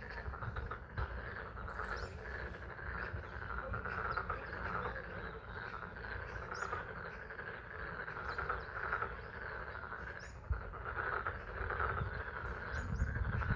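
A chorus of pond frogs calling together in a dense, continuous chatter, with spring rain falling. A few short high chirps stand out at intervals.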